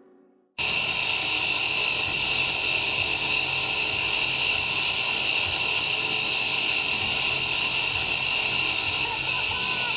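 Helicopter's turbine engine and rotor running steadily with a loud high whine, starting abruptly about half a second in.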